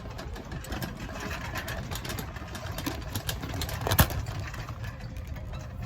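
Steady low engine and road rumble of a car, heard from inside, with scattered small clicks and one sharp knock about four seconds in.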